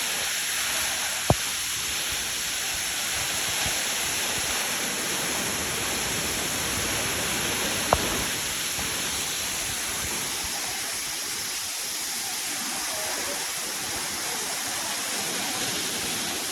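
Steady rush of falling or running water, a loud even wash of noise. Two sharp clicks stand out above it, about a second in and again about eight seconds in.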